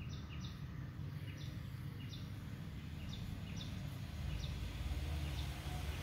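A small bird repeating a short, high chirp that falls in pitch, about once or twice a second, over a low background rumble that grows slightly louder near the end.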